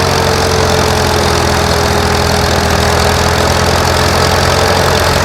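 Antique farm tractor engine running steadily, with a steady high tone over the engine that drifts slowly lower.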